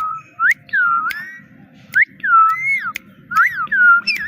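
Pet parrot whistling a quick series of short chirps, each note gliding up or down in pitch, often paired as a rising note followed by a falling one. A few sharp clicks fall between the notes.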